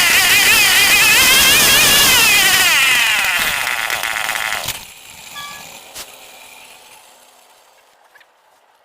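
Stihl 070 two-stroke chainsaw engine running loud with wavering, unsteady revs, slowing down and cutting out about four and a half seconds in.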